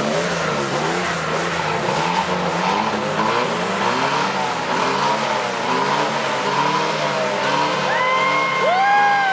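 Chevrolet Opala engines revving up and down over and over, with sharp high squeals near the end.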